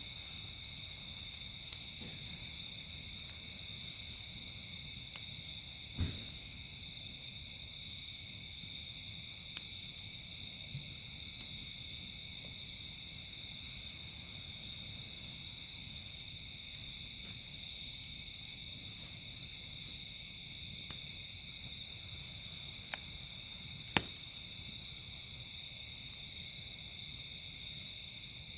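Campfire crackling with a few faint ticks and two sharp pops, one about six seconds in and a louder one near the end. Under it runs a steady high-pitched chorus of insects.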